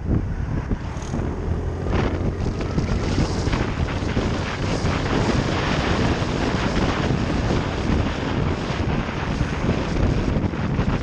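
Motorcycle riding at speed, its engine running under heavy wind buffeting the microphone.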